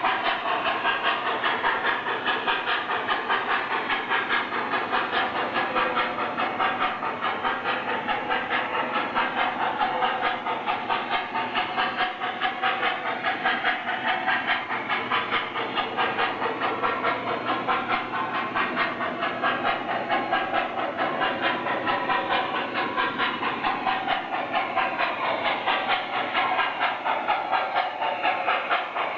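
Lionel model train running on its track: a steady, fast, even clatter of wheels over the rails, with a hissing rush.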